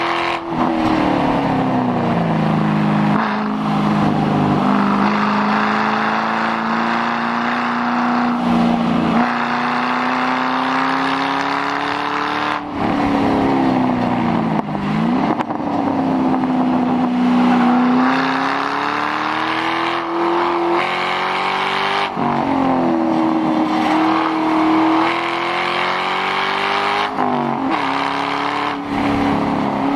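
2006 Mustang GT's 4.6-litre V8 with the mufflers deleted, driven hard on track. The exhaust note climbs slowly in pitch under throttle, then drops sharply half a dozen times as the driver lifts or shifts.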